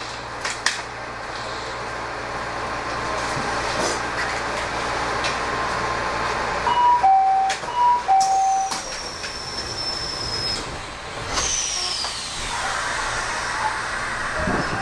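Inside a Kobe Electric Railway commuter train at a station stop: the door chime sounds as two alternating tones repeated, and the sliding doors shut with loud thumps. Then a high electric whine falls in pitch twice as the train starts off.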